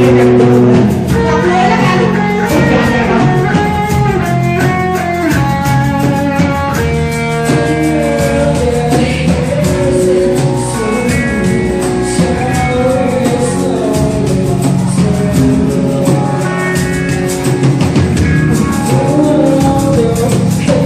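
Band music with guitar and a singing voice carrying a melody.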